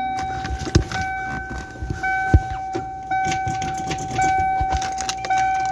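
1993 Ford Mustang's warning chime sounding over and over, one steady tone restarting about once a second, with sharp clicks and jingling of the keys at the ignition. The car doesn't start.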